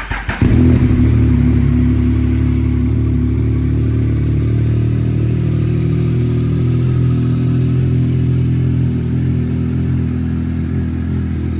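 Yamaha MT-09's three-cylinder engine catching just after the start and then idling steadily, with a deep exhaust note that is loud because the exhaust baffle is out.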